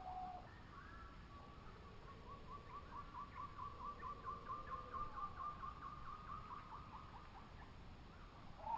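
A bird calling: a long run of short, quick repeated notes, about five a second, that starts about two seconds in and stops near the end, with another call beginning right at the end.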